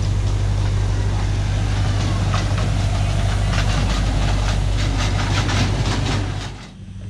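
Park ride-on train running: a steady low engine drone, with a run of irregular clattering clicks from about two seconds in, then cutting off sharply near the end.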